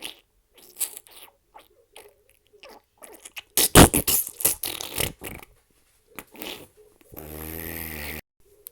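A run of fart sound effects: a few short faint sputters, then a cluster of loud rapid sputtering farts about four seconds in, and near the end one steady buzzing fart lasting about a second.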